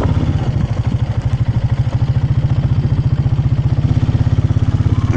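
Motorcycle engine running steadily at low speed with a rapid, even putter.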